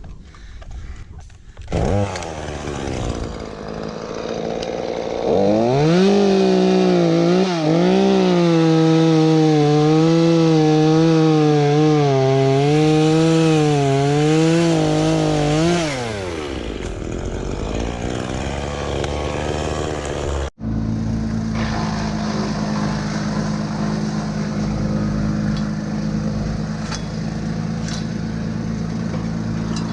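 Chainsaw revving up and cutting wood, its pitch wavering up and down under load for about ten seconds before dying away. After an abrupt break, a small engine runs steadily at a lower pitch.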